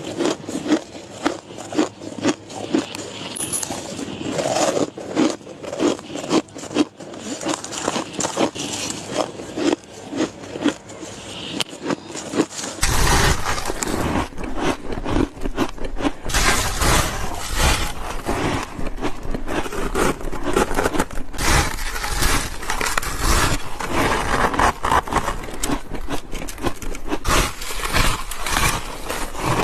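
Close-miked crunching and chewing of ice, bite after bite with irregular crackling crunches. About thirteen seconds in it becomes louder and denser, with a low rumble underneath.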